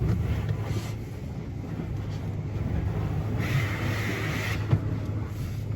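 Steady low rumble of a running vehicle, with a hiss lasting about a second starting about three and a half seconds in and a single sharp click shortly after.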